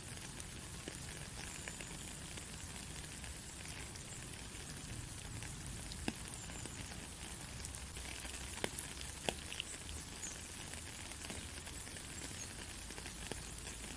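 Steady rain falling on a country road: an even hiss of rain over a low steady rumble, with scattered drop clicks and a few louder single drops about six and nine seconds in.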